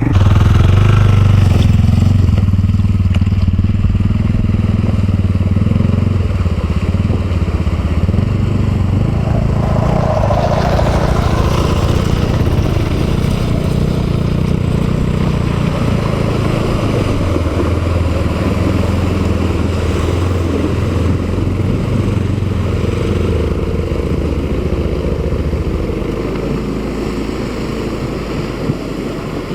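Honda Africa Twin motorcycle's parallel-twin engine running under way on a dirt track, its note rising and falling with the throttle, over wind and tyre noise. The deep engine note drops away near the end as the throttle eases off.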